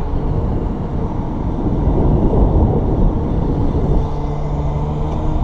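A motor vehicle's engine running with a low rumble, settling into a steady hum about four seconds in.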